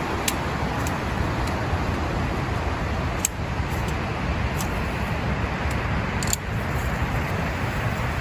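Heavy rain falling steadily, with a few scattered sharp ticks of drops striking something close by.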